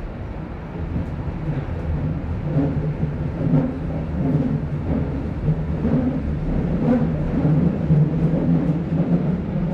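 Steady low rumble of an underground train running.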